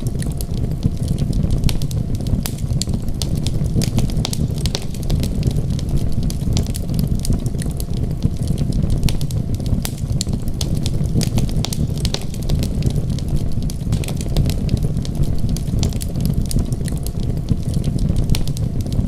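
Wood fire crackling with many small, sharp pops scattered irregularly over a steady low rumble.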